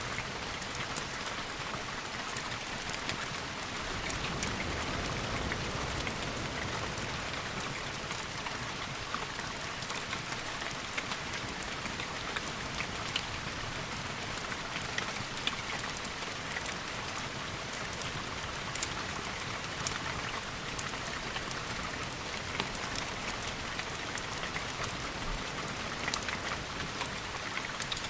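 Steady rain hiss with many scattered sharp ticks and pops throughout, in a layered storm ambience.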